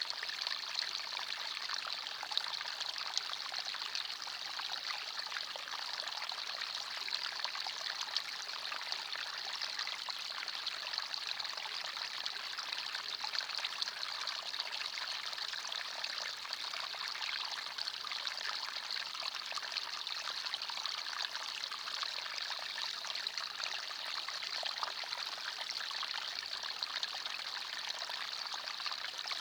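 Forest stream: shallow water trickling and splashing steadily over stones, a bright, even babble without deep rushing.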